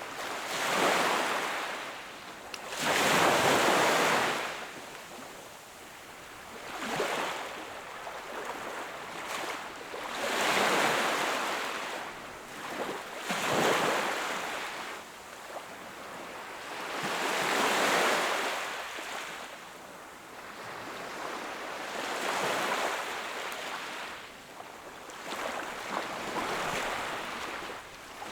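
Sea waves breaking and washing up the shore, one surge every three to four seconds. Each is a rush of surf that swells and fades away.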